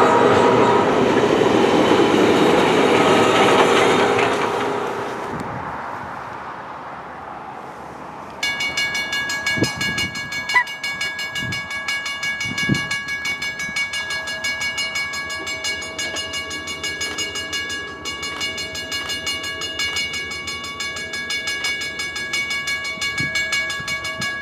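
A passing train: a chime whistle sounds over train noise and fades away over the first several seconds. About eight seconds in, a steady pulsing, ringing mechanical sound starts suddenly at about three beats a second and cuts off at the end.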